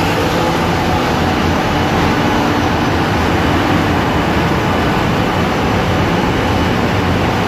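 Engine room machinery of a large diesel cargo ship running: a loud, steady noise with an even low hum and no breaks or changes.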